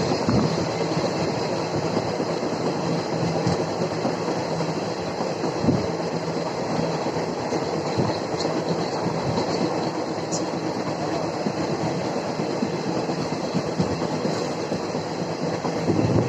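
Indian Railways express train running along the track: a steady rumble of wheels on rail, with a few sharp knocks as the wheels cross rail joints.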